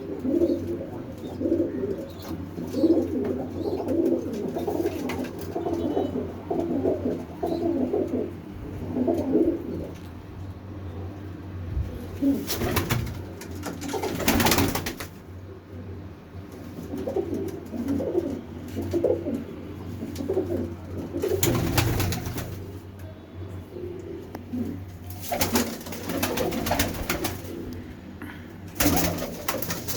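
Pigeons or doves cooing repeatedly in low, throaty phrases, with several short bursts of rustling noise partway through and near the end.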